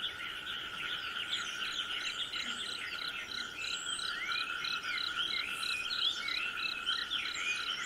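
Chorus of insects and frogs: steady trilling, a regular pulsing chirp about three times a second, and scattered short chirps.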